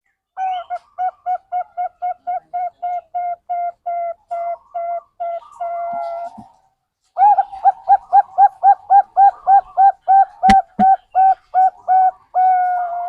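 Zebra dove (Bangkok-type perkutut) song used as a lure to get birds singing: a rapid series of short cooing notes, about four a second, ending in a longer held note, then after a short pause a second, louder series ending the same way. A sharp click about ten and a half seconds in.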